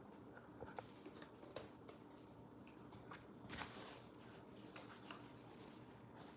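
Near silence: room tone with a few faint, scattered taps and clicks.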